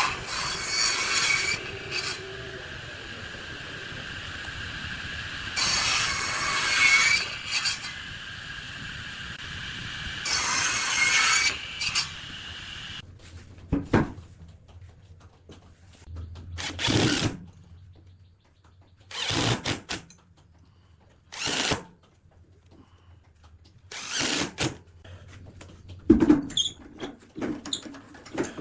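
A power tool running with a steady whine, with three louder bursts as it cuts into wood; it stops about halfway through, followed by scattered knocks and clatters of workpieces being handled.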